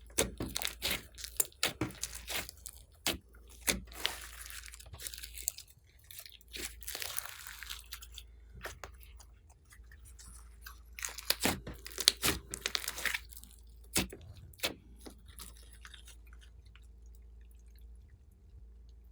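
Slime being squeezed and kneaded by hand, making irregular sticky pops, clicks and crackles. They come thick and fast at first, then thin out to a few scattered clicks near the end.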